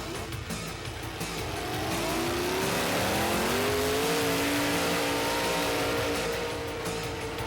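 A vehicle engine rises in pitch over about two seconds, starting near the two-second mark, then holds steady at high revs.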